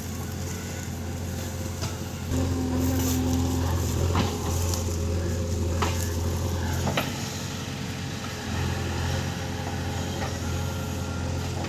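JCB backhoe loader's diesel engine running under working load. It gets louder about two seconds in, eases off around seven seconds, and rises again a second and a half later, with a few sharp knocks along the way.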